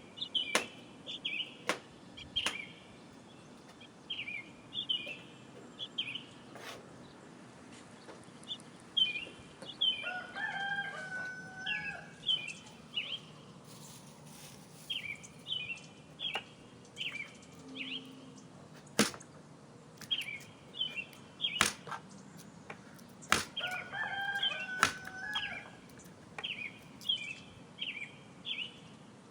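Small birds chirping in short quick runs over and over, with sharp clicks now and then and a lower two-note call twice.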